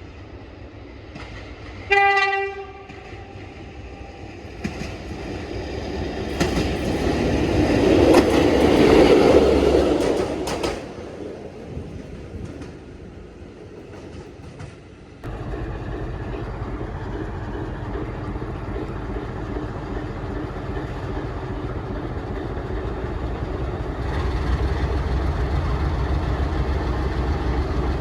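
A train sounds one short horn blast, then passes, its rolling noise building to a peak and fading. About fifteen seconds in the sound cuts abruptly to the steady low engine drone of a train.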